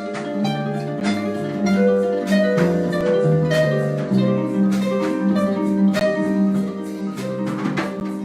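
Live harp jazz: a concert harp plays plucked melody and chords over a plucked bass line, with light percussion marking a steady beat about twice a second.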